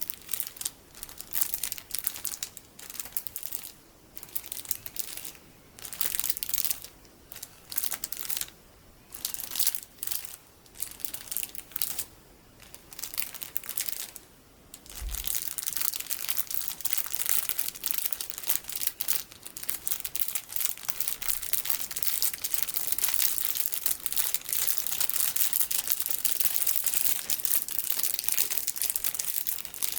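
Plastic packaging filled with colorful sticky beads being squeezed and crinkled. At first the crinkles come in separate bursts with short pauses; from about halfway on, the crinkling is continuous.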